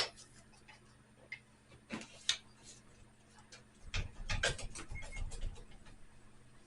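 Scattered clicks and knocks of tools and metal parts being handled while working on a motorcycle engine, with a sharp click at the start and a cluster of duller knocks about four seconds in.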